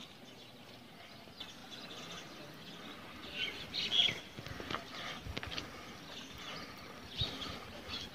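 Birds chirping over quiet outdoor ambience, in two short clusters about a third of the way in and again near the end, with a few faint knocks.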